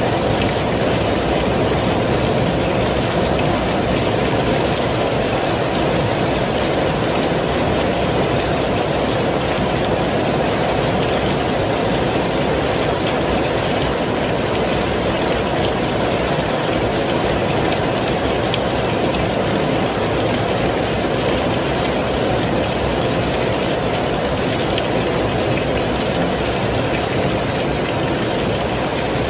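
Steady heavy rain, an even dense hiss that holds without a break.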